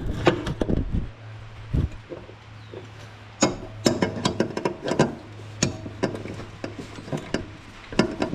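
Hand tools working on a ride-on mower's blade spindle: irregular metallic clicks and knocks, some sharp and loud, over a steady low hum.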